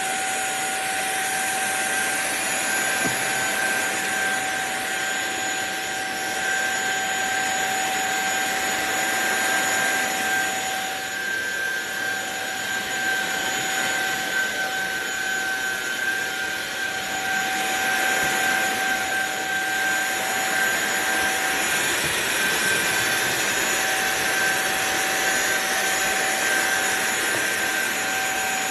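SunSare X7A cordless stick vacuum cleaner running at full suction: a steady, high motor whine over the rush of air through the head.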